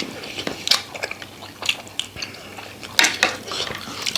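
Spoon clinking against a plate and bowls during a meal: scattered short clicks, the loudest pair about three seconds in.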